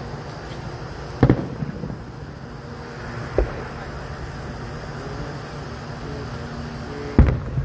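Fireworks shells bursting at a distance: three sharp booms, about a second in, a smaller one midway, and a loud one near the end. A steady low hum runs underneath.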